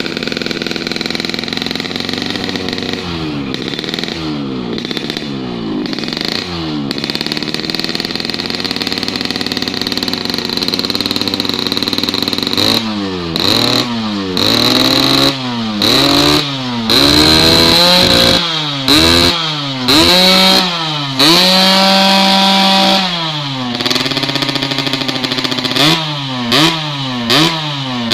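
Yamaha RX-King's 135cc two-stroke single, with a ported cylinder and an aftermarket under-belly exhaust, idling with a few light throttle blips, then revved in a quick series of sharp blips from about halfway, twice held at high revs for a second or two.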